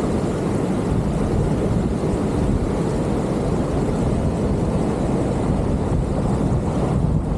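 Steady low rumble of wind on the microphone and ocean surf, an even roar with no single event standing out.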